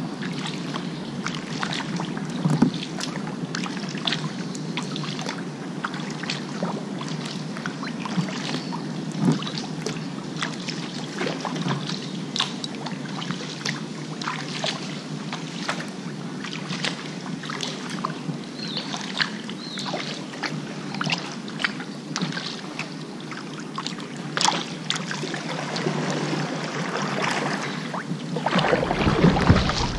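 Kayak paddle dipping into river water, with irregular small splashes and drips. Near the end, wind starts buffeting the microphone.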